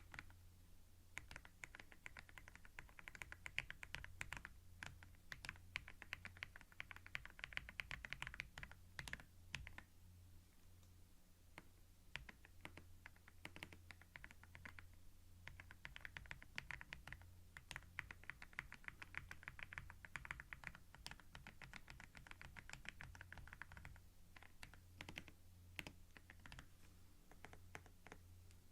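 Typing on a computer keyboard, recorded close up: fast runs of key clicks broken by short pauses with only a few scattered clicks, over a steady faint low hum.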